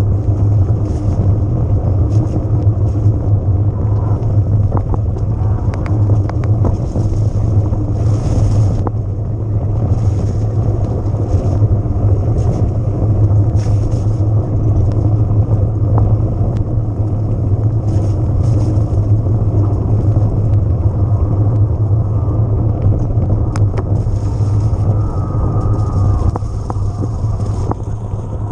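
Riding noise of an electric mountain bike picked up by the rider's camera: a steady low rumble of wind and tyres on the trail, with scattered clicks and knocks from the bike over rough ground.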